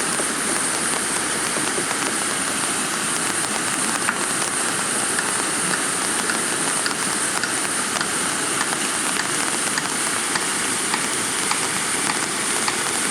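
Heavy rain falling steadily, a dense hiss with scattered sharp clicks of individual drops striking close by.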